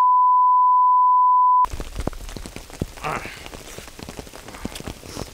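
A steady 1 kHz test tone, the reference beep that goes with TV colour bars. It holds for under two seconds and cuts off suddenly. Then rain patters with many small ticks.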